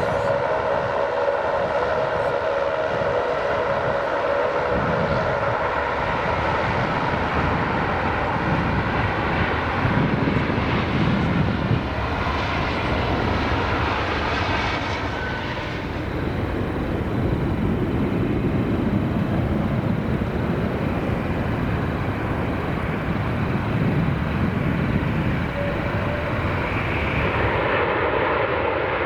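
Jet engines of Airbus A330 airliners on landing approach: a steady, loud jet whine with engine tones at the start. About halfway through, the engines of a second A330 take over, and their pitch rises near the end.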